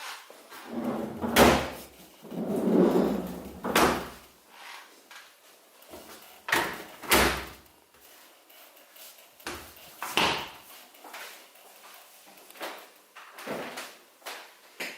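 Doors and drawers of a side-by-side fridge being opened and shut: a series of separate knocks and thumps, the loudest in the first four seconds, with lighter clicks later.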